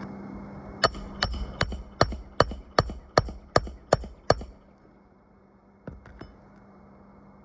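A hammer driving roofing nails into an asphalt shingle: a quick even run of about ten sharp, ringing blows, roughly three a second, then two light taps.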